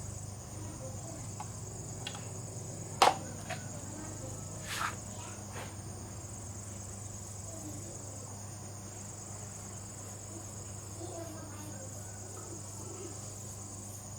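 Insects chirring steadily in the background over a low steady hum, with one sharp knock about three seconds in and a softer one near five seconds.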